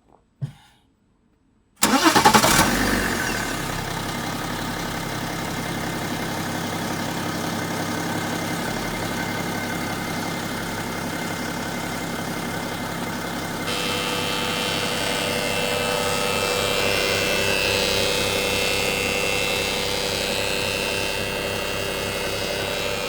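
BMW E61's engine starting after a click, flaring briefly and then settling into a steady idle. About halfway through, a steady whine joins the idle.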